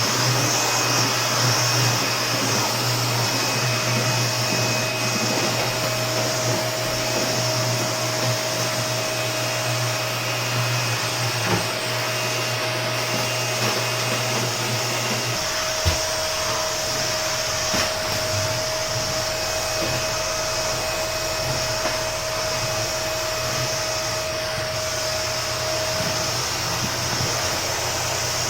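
Household vacuum cleaner running steadily during cleaning, with a thin steady whine over its rushing noise. Its low hum changes about halfway through, and a few light knocks come through as it is pushed around.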